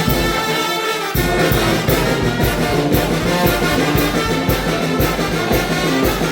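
Mexican brass band playing a huapango: trumpets and trombones over a steady beat of drum and cymbal strikes. The drums and bass drop out for under a second near the start, then come back in.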